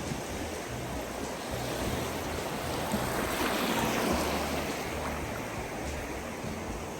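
Small sea waves breaking and washing over the shallows; one wash swells about three seconds in and then fades.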